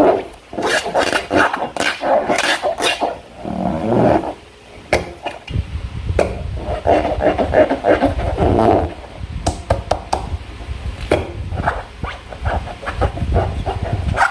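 Slime being squished and worked by hand, irregular squelches with many small clicks in clusters and short pauses between them. About five seconds in a low rumble sets in underneath.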